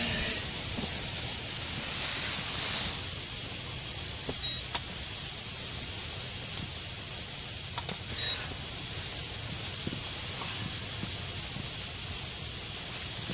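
Steady high hiss with a low rumble underneath, broken by two brief electronic beeps, about four and eight seconds in.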